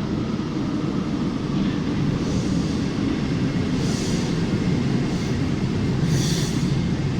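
Paris Métro line 3bis train running on its rails: a steady low rumble that grows slightly louder, with several short high hissing bursts.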